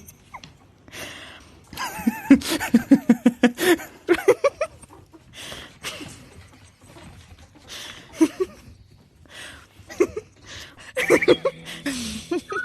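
People laughing in several bursts of quick repeated 'ha' sounds, the longest about two seconds in and another near the end.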